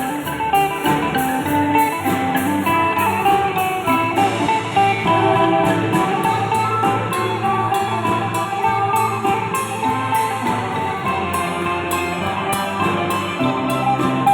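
A pong lang ensemble playing Isan folk music: a plucked-string melody over a steady percussion beat.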